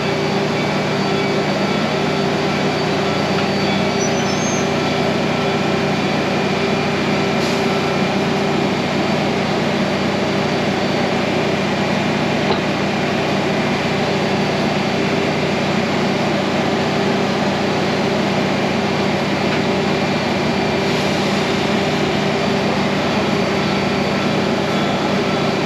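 Train at a station platform: a steady mechanical drone with a constant hiss over it, unchanging throughout.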